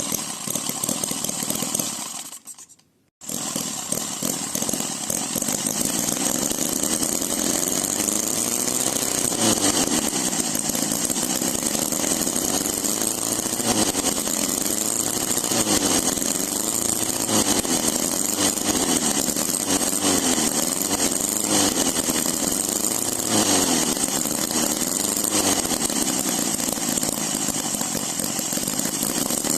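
OKMO H75 Holt model engine running, revved up and down over and over across its throttle range. The sound cuts out briefly about three seconds in, then resumes.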